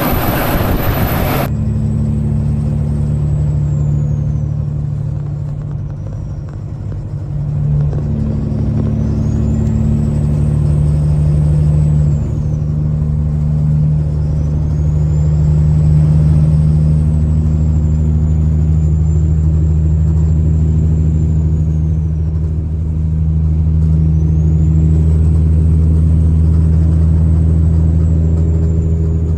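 Semi truck's diesel engine running steadily on the road, a low drone that swells and eases slightly. A faint high whistle rises and falls several times. It is preceded by a loud rushing noise that cuts off suddenly about a second and a half in.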